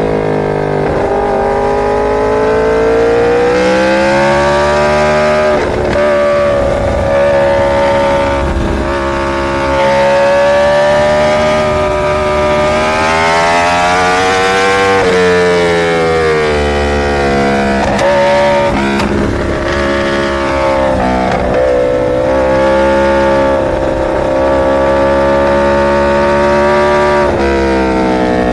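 Superbike's inline-four engine running under way, its note climbing and falling slowly as the throttle changes, with a few sharp dips in pitch.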